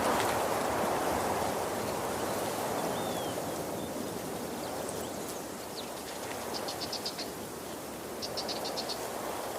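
Waterfall rushing steadily. Short high trills of rapid chirps, about nine pulses a second, come twice over it in the second half, with a single faint chirp earlier.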